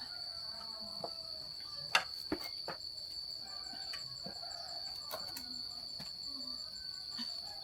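Steady high-pitched insect trill, with a handful of sharp clicks; the loudest comes about two seconds in and another follows soon after.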